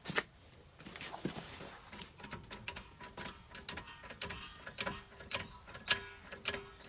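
Car jack being worked to raise the car for a tyre change, giving a run of irregular metallic clicks, about two a second.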